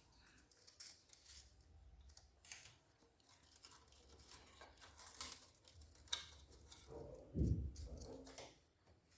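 Small clicks and rustles of hands handling wiring and plastic parts inside a copier, with a louder low thump about seven and a half seconds in.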